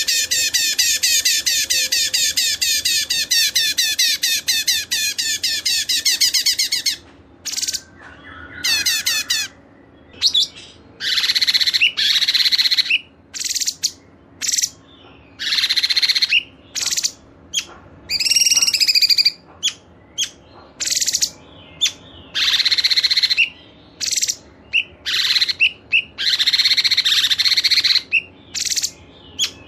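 Songbird song from a masteran training mix: a dense, rapid, unbroken song for about the first seven seconds, then loud high phrases about a second long separated by short pauses.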